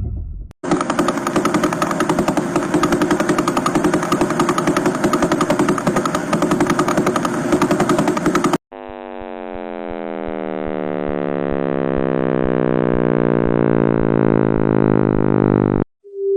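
Two audio clips presented as sounds of space. First a dense buzzing noise with a fast, rapid pulsing for about eight seconds; then, after a brief break, a cluster of many tones all gliding downward in pitch, growing steadily louder until they cut off suddenly near the end.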